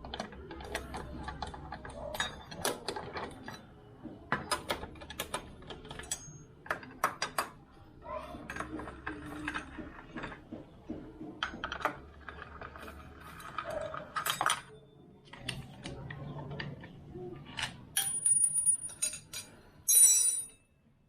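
Metal tools and bolts clinking and clicking in an irregular run of sharp knocks as the CVT side cover bolts are fitted back in, with a louder clatter near the end.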